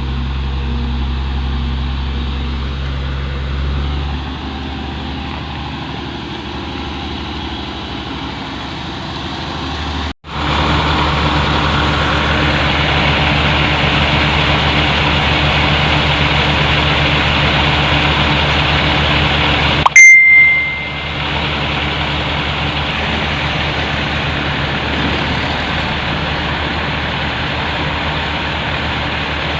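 Heavy diesel engine running steadily. About ten seconds in the sound drops out for an instant and comes back louder. About twenty seconds in there is a short sharp click with a brief high ring.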